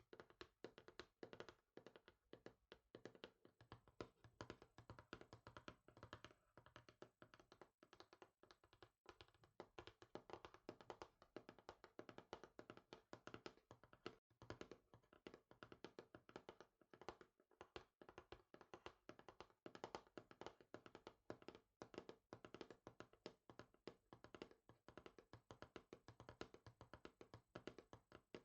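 Soft, rapid finger tapping on a hard surface, in quick continuous flurries of many taps a second.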